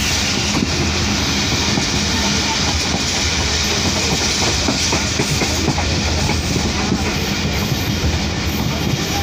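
Moving passenger train running at speed: a steady low rumble with the wheels clicking over the rail joints.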